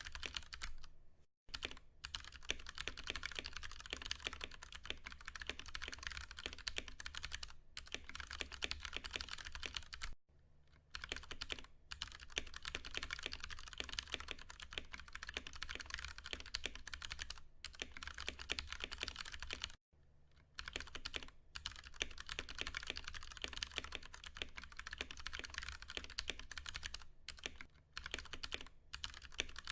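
Rapid, continuous typing on a Ducky One 2 Mini mechanical keyboard with tactile Cherry MX Brown switches, a dense patter of key strokes broken by a few brief pauses.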